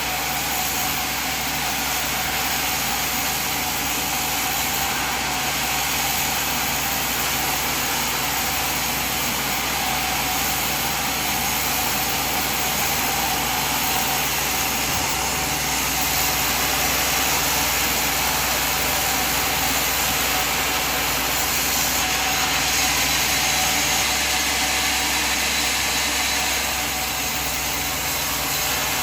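Sawmill machine running steadily, a continuous mechanical noise with no breaks or sudden strokes.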